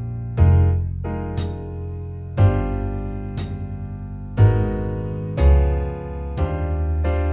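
Jazz backing track at a slow 60 bpm: piano chords over a bass line, a new attack about once a second, with the bass note changing on each beat.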